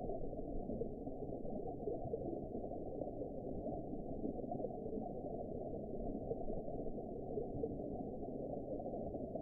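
Steady, muffled underwater ambience: a continuous low rumbling wash of water noise with no highs, unchanging throughout.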